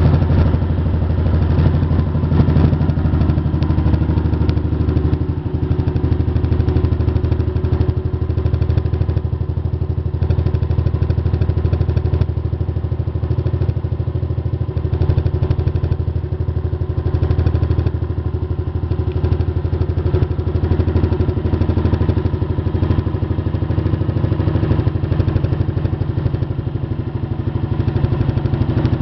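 Honda CG 125 Fan motorcycle's single-cylinder four-stroke engine idling steadily.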